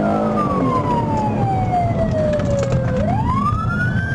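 Police car siren on a wail, falling slowly in pitch for about three seconds, then sweeping quickly back up, over engine and road noise.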